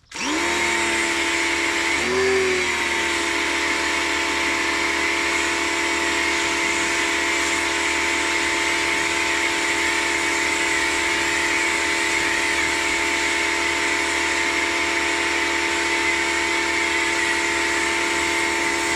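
W6 2600 PSI electric pressure washer starting up and running steadily: its electric motor and pump hum at a constant pitch under the hiss of the spray, with a brief wobble about two seconds in. It is siphoning soap from its suds bottle, which runs it at low pressure.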